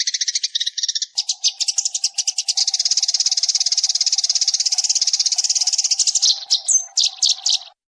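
Sparrow lure call: a fast, continuous run of high chirps, about ten a second. About a second in the sound changes abruptly to a denser chatter over a faint low hum, which breaks into short separate bursts near the end and then cuts off suddenly.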